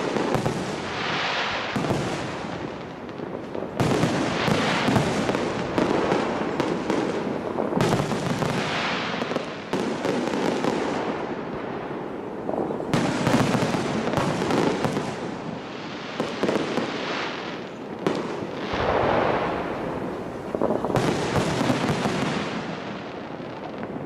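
Large display fireworks: a dense, continuous barrage of aerial shell bursts and crackling, swelling in waves every few seconds.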